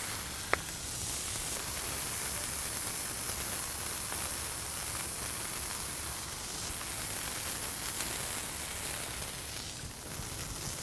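Two seasoned 80/20 ground chuck patties and garlic Texas toast sizzling steadily on a Blackstone flat-top griddle, with one sharp click about half a second in.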